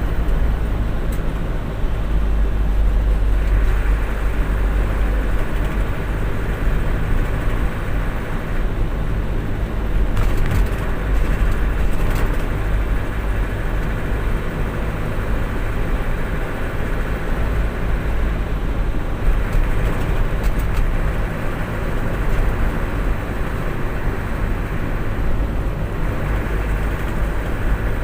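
Steady low rumble of a motor vehicle's engine and road noise, continuous and even in level.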